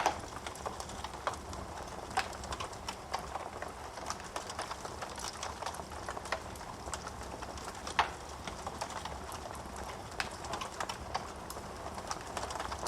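Wood fire in a fireplace crackling: a steady run of small pops and snaps over a soft hiss, with louder single pops at the start, about two seconds in and about eight seconds in.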